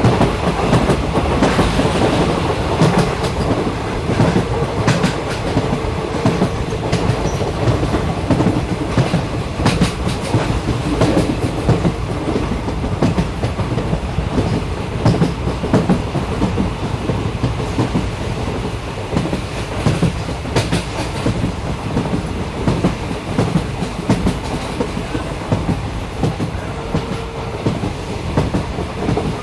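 Train running along the track, a steady rumble with frequent wheel clicks over rail joints.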